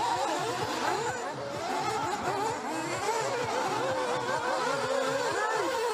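Several nitro RC buggy engines racing together, a layered high-pitched whine whose pitches keep rising and falling as the cars accelerate and back off around the track.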